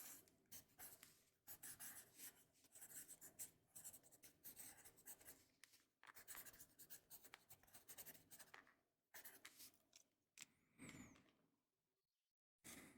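Quiet writing on paper, close to the microphone: a run of scratchy strokes for about nine seconds, then a few short strokes and a pause before one more brief stroke near the end.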